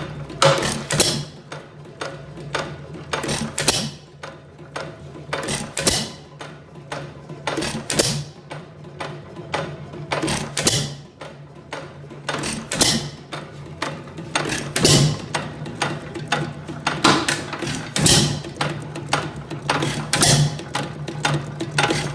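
4 hp Acme hit-and-miss engine running, with a sharp firing beat every one to two seconds and lighter mechanical clicking between them as it coasts, over a steady low hum.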